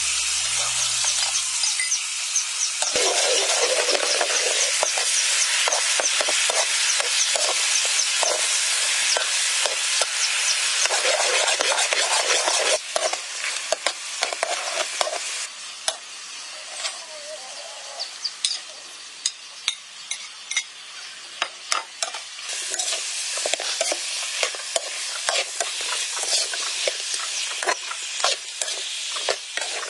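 Sweet and sour pork ribs sizzling and frying in a hot wok, with a utensil stirring and scraping against the metal. The sizzle swells about three seconds in, eases for a stretch midway with scattered clinks, then picks up again near the end.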